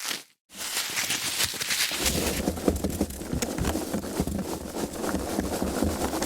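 Foam packaging being handled, with dense crackling and creaking. It stops briefly just after the start, then resumes and grows heavier and fuller from about two seconds in.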